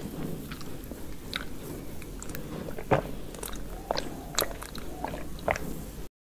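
Close-miked mouth sounds of a person eating soft frosted cake, chewing with scattered sharp wet clicks. The sound cuts off abruptly near the end.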